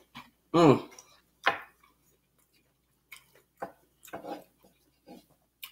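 Close-miked eating sounds: a short falling hum about half a second in, then quiet chewing and mouth sounds with a few light clicks of a utensil on the plate.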